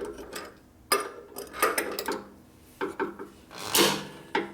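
Hand lug wrench working the wheel nuts of a Harley-Davidson shovelhead: metal scraping and clinking, with several sharp metallic knocks and a longer, louder scrape near the end.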